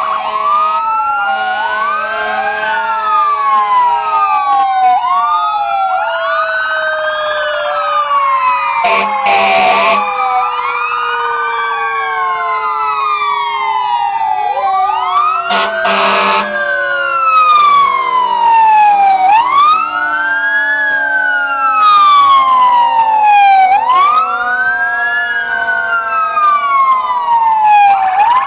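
Several emergency-vehicle sirens wailing at once, rising and falling out of step with one another. Two short, loud horn blasts cut in, about nine seconds in and again about sixteen seconds in.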